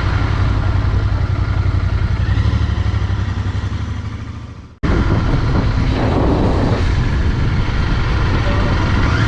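Royal Enfield Continental GT 650's parallel-twin engine running while riding, a steady low pulsing exhaust note. About halfway through it fades out, then cuts straight back in.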